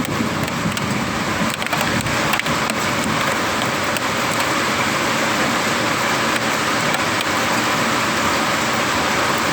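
Steady rain falling in a thunderstorm, with scattered sharp ticks of individual drops striking.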